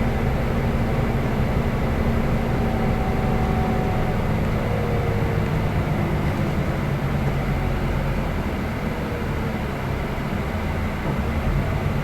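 Scania OmniExpress 340 coach on a Scania K320 IB chassis driving along: steady engine rumble and road noise, with faint whines from the drivetrain. It eases off a little about eight seconds in and picks up again near the end.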